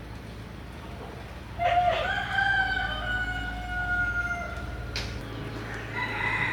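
A rooster crowing once: one long call starting about a second and a half in, holding for about three seconds and sinking slightly in pitch at the end. A sharp click follows, and a steady low hum runs underneath.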